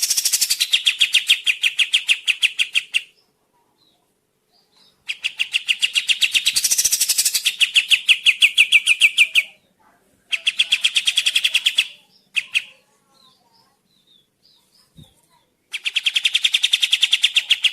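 A songbird singing long, fast trills of evenly repeated notes, about ten a second, in runs of a few seconds broken by short pauses.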